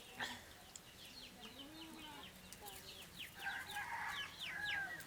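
Chickens clucking, loudest in a call about three seconds in, over a steady run of quick chirps from small birds.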